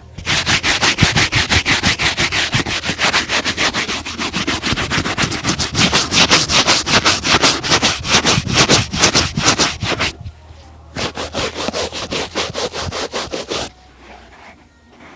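A leather shoe being brushed briskly in fast back-and-forth strokes, about five a second, with a brief pause about ten seconds in. The strokes stop about two seconds before the end.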